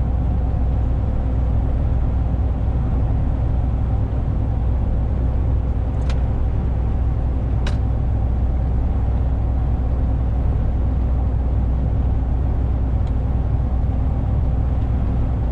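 Steady low drone of a truck's engine and road rumble heard from inside the cab, with two faint ticks about six and eight seconds in.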